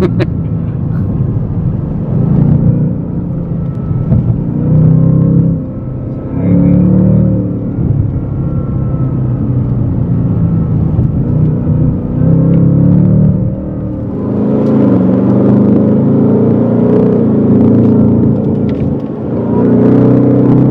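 Ford Mustang engine heard from inside the cabin, pulling in several swells, the engine note rising and easing back each time.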